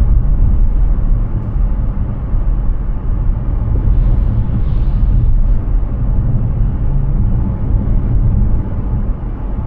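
Steady low rumble of tyre and road noise from a Hyundai Ioniq 6 electric car driving at speed, with no engine note. A faint brief hiss rises and fades about four to five seconds in.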